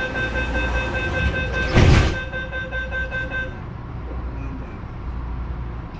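Tung Chung line CAF electric train running, a steady low rumble with a flat steady tone over it that stops about three and a half seconds in. A loud short thud comes about two seconds in.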